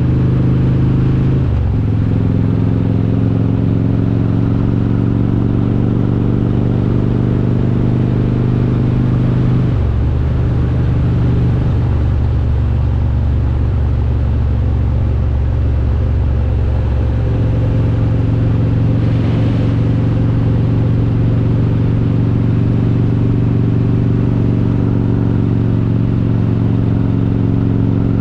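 Harley-Davidson Road King's S&S 95-cubic-inch V-twin with Super Stock heads running under way with a steady low exhaust note. The engine note changes pitch about a second and a half in, again near ten seconds and once more near seventeen seconds, as engine speed changes.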